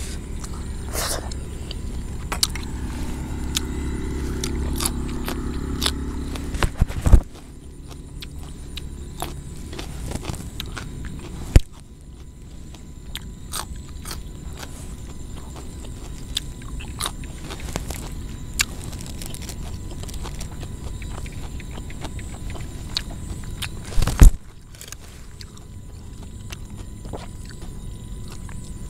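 Close-up mouth sounds of eating raw beef and vegetables: chewing and wet smacking clicks. For the first seven or so seconds a motor vehicle's engine runs nearby, then stops; a few sharp knocks stand out about 7, 11 and 24 seconds in.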